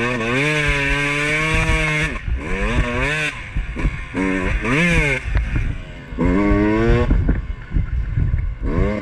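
Two-stroke enduro dirt bike engine being ridden, revving up and dropping back again and again as the throttle is opened and closed, a rising pitch every second or two.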